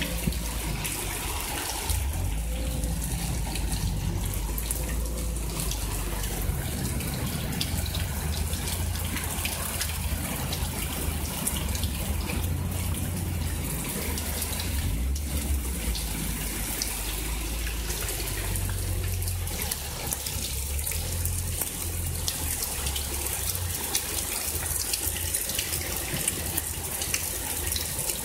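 Heavy storm rain pouring down: a steady hiss thick with the patter of drops striking close by, over a low, uneven rumble.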